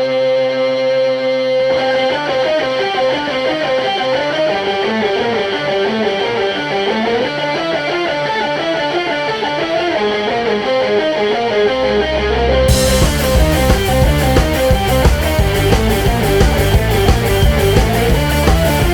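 Instrumental opening of a rock song: held chord tones give way to a plucked guitar line, then drums and bass come in about two-thirds of the way through and the music gets louder.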